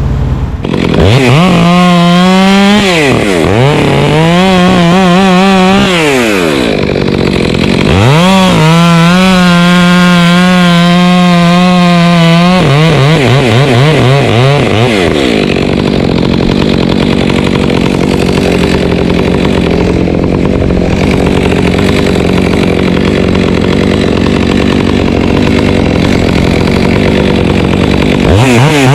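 Chainsaw revving to full throttle in several bursts, the pitch climbing and dropping each time, then running for about twelve seconds with a rougher, steadier sound as it cuts through wood, and revving up again at the very end.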